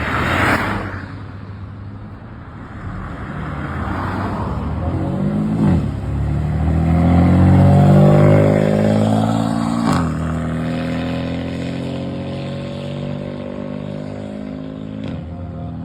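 Lamborghini Huracán STO's naturally aspirated V10 accelerating hard through the gears. The pitch climbs and then drops sharply at three upshifts. It grows louder toward the middle of the run, then fades.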